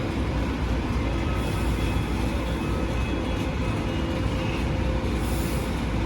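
Taipei Metro C341 electric train at the end of its arrival at the station, giving a steady low rumble with faint steady whining tones above it.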